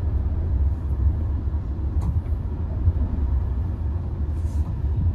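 Steady low drone of a Tata Nexon's 1.2-litre turbo-petrol three-cylinder engine and tyre noise heard inside the cabin, cruising as the six-speed manual is put into sixth gear. A faint click comes about two seconds in.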